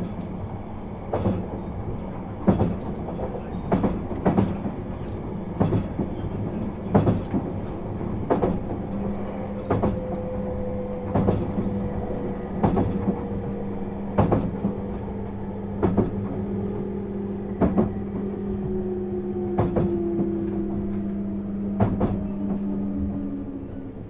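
Interior running sound of a JR East 651 series electric train: wheels clacking over rail joints about every second and a half, over a steady hum. In the second half a tone falls slowly in pitch.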